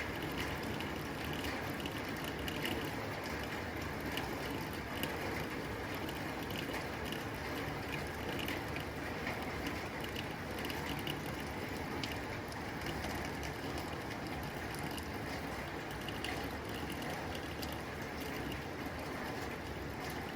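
Rain falling on a tin roof: a steady hiss of rain with many small, irregular ticks of drops striking the metal sheeting.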